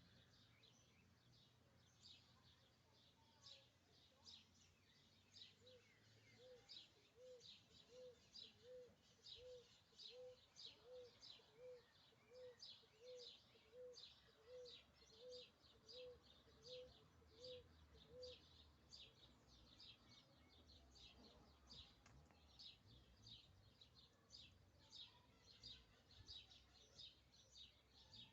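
Faint bird calls: short high chirps repeated two or three times a second, without pause. For about thirteen seconds in the middle, a run of short low notes joins in, evenly spaced a little under a second apart.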